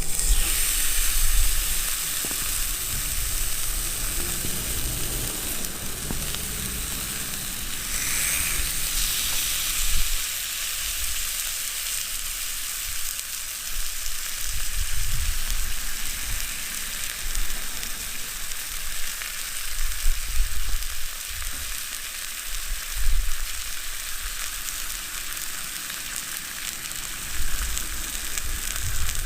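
Meat sizzling on a grill over a fire-pit stand: a steady, dense hiss, with occasional low thumps.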